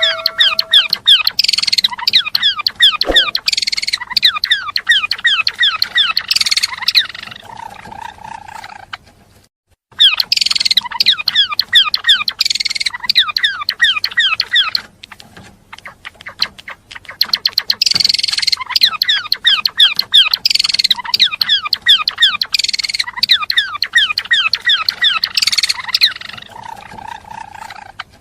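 Gelatik belong songbird singing a fast, chattering song of rapid, short falling notes in long phrases, with short breaks between phrases; the same phrases come round again and again, as in a looped recording.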